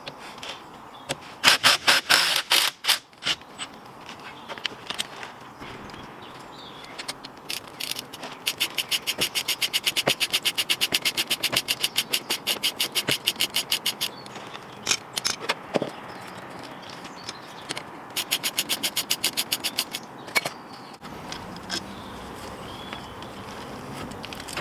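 Socket ratchet clicking in quick even runs of about seven clicks a second, with a few separate knocks and scrapes between the runs.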